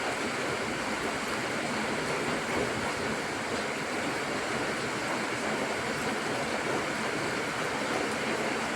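Portable fire pit burning with a steady rushing flame noise.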